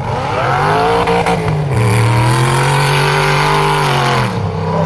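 Prerunner race truck engine running at high revs under hard throttle. Its pitch climbs at the start, holds high and steady, then drops off about four seconds in.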